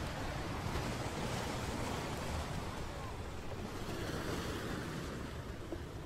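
Steady rushing noise of wind buffeting the microphone, mixed with the wash of harbour water.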